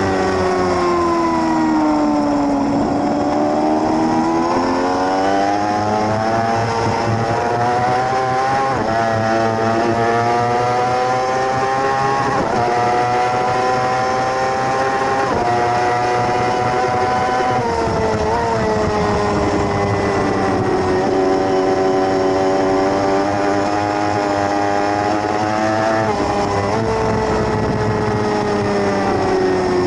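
A 600cc race motorcycle engine at racing speed. Its note falls at first, then climbs through the gears with sharp drops in pitch at the upshifts, about twelve and fifteen seconds in. Later it falls off again and picks up near the end.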